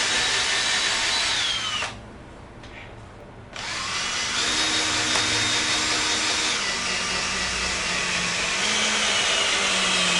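Makita DF333D 12V cordless drill running at speed, stopping about two seconds in, then starting again a second and a half later and running steadily on.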